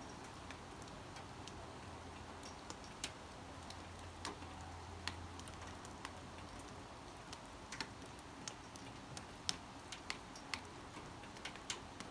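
Light rain: single drops tapping sharply and irregularly on a surface, a few a second at most, over a soft steady hiss.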